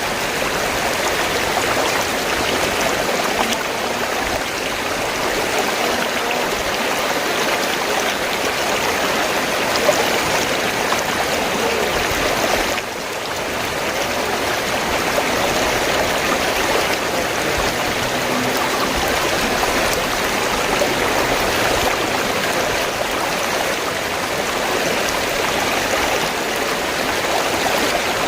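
River water flowing steadily, with a brief dip in level about halfway.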